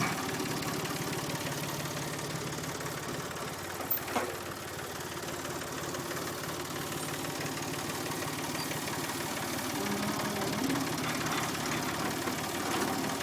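Massey Ferguson 245 tractor engine running steadily at idle, with one short knock about four seconds in.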